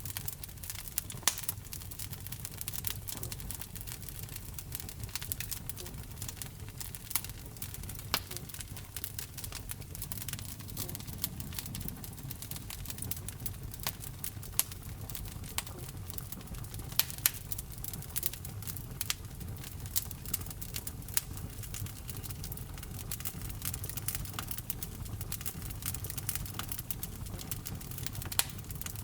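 Wood fire burning in a fireplace: a steady low rumble of flames with irregular crackles and occasional louder pops.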